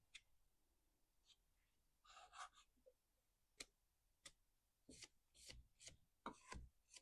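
Faint, scattered clicks and short scrapes of chainsaw parts and tools being handled, with a few sharp ticks in between.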